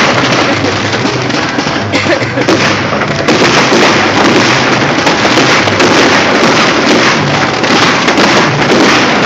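Fireworks going off in quick succession: a dense, continuous crackle of many small bangs.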